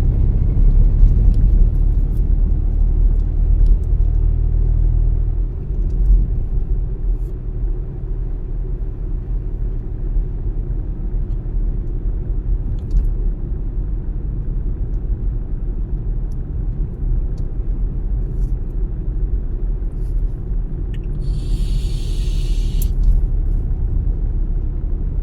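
Car driving: a steady low rumble of road and engine noise, a little louder for the first five seconds. Near the end comes a brief high hiss lasting about a second and a half.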